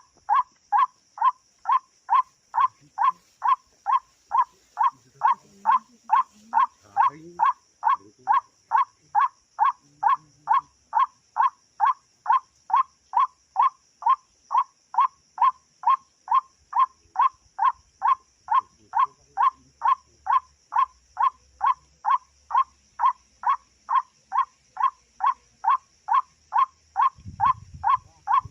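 White-breasted waterhen (ruak-ruak) call: a short, pitched 'kwak' repeated very evenly, about twice a second and without a break, over a steady high hiss.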